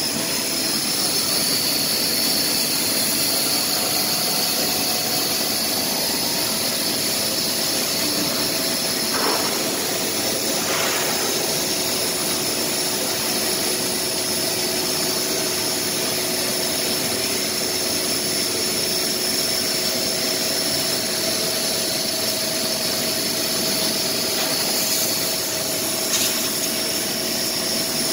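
Laser cutting machine running while it cuts a fireplace door: a steady hiss with a high whine over it.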